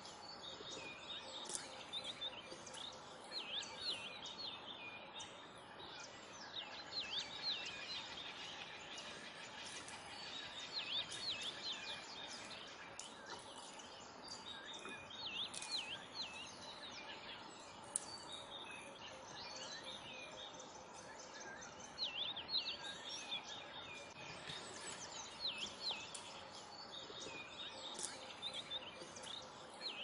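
Wild birds calling in short bouts of quick looping, up-and-down whistles that recur every few seconds, over a steady background hiss.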